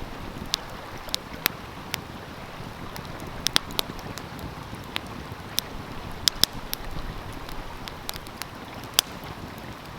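Wood fire crackling with sharp irregular pops, over the steady rush of a flowing stream.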